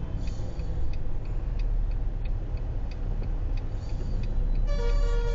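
Steady low engine and road rumble of a car in traffic, with a regular faint ticking about two to three times a second. About three-quarters of the way in, a car horn starts and is held.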